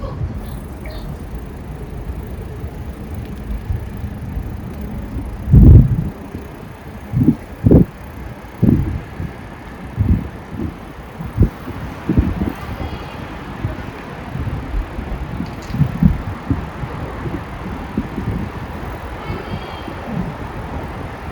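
A bicycle ride: a steady low rumble, with irregular low gusts of wind buffeting the microphone, the strongest about six seconds in.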